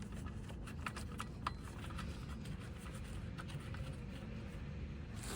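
Light, irregular clicks and taps from hand work on a car engine's belt tensioner pulley and its bolt as it is fitted back on, over a low steady hum.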